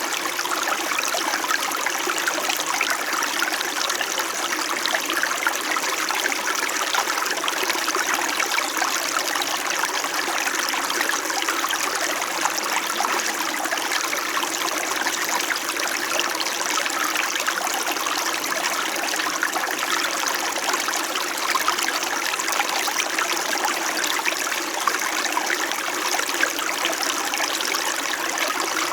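Small mountain stream flowing and trickling over rocks, a steady babbling rush of water.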